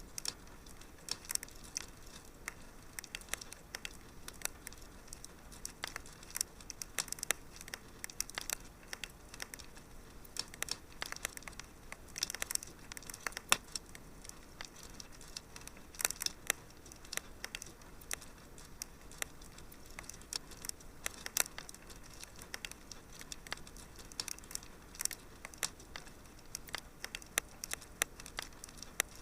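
Wood fire burning in a fireplace: irregular crackles and pops over a soft steady hiss, with a few louder pops.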